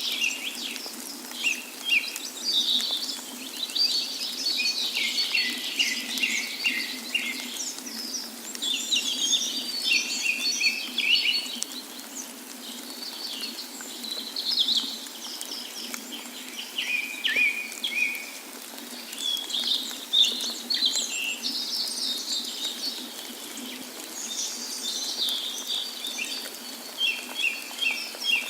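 Several small birds chirping and singing continuously in quick, overlapping high calls and short trills, over a faint steady rush of water.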